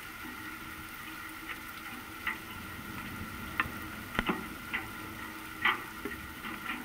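Steady rain falling, with irregular louder drips tapping on something close by, the sharpest about halfway through and again near the end.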